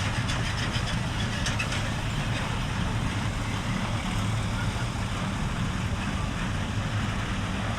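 Diesel truck engine idling steadily, a low even rumble, with a few faint clicks about one and a half seconds in.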